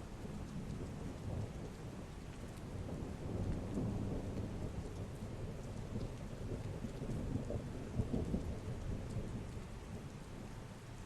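Heavy rain falling steadily under a low rumble of thunder that builds a few seconds in, swells again past the middle, and fades toward the end.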